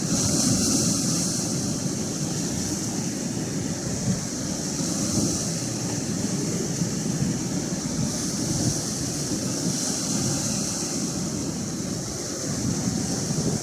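Atlantic Ocean surf washing in continuous waves, with wind rumbling on the microphone. The hiss of the water swells and eases every few seconds.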